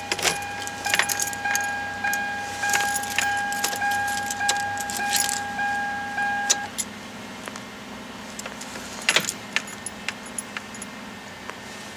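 Car keys jangling and clicking in a 1999 Toyota Corolla's ignition while the car's steady electronic warning chime sounds. The chime stops about two-thirds of the way through, and a few louder clicks follow.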